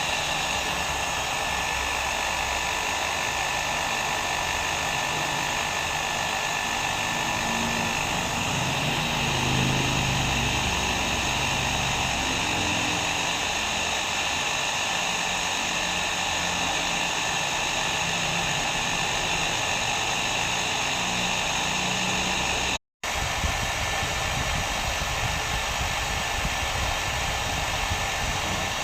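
Hair dryer running steadily: an even blowing noise with a faint whine of a few high steady tones on top. It cuts out completely for a split second about three-quarters of the way through, then carries on unchanged.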